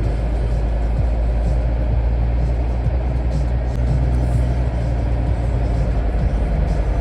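Scania truck engine running steadily as it drives, a low drone with road noise.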